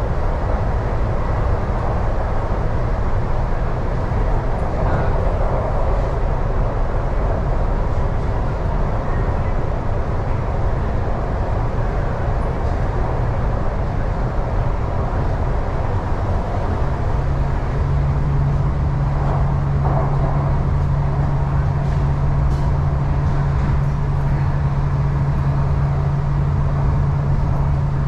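East Rail Line R-Train electric multiple unit running along the line: a steady rumble of wheels and running gear, joined about two-thirds of the way through by a steady low hum that holds to the end.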